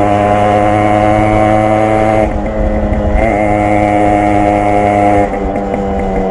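Yamaha RX 100's two-stroke single-cylinder exhaust running at steady revs while riding, the note dipping briefly about two seconds in and again near the end as the throttle changes.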